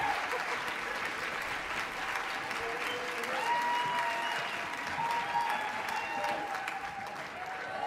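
Audience applauding steadily, with a few held cheering tones over the clapping.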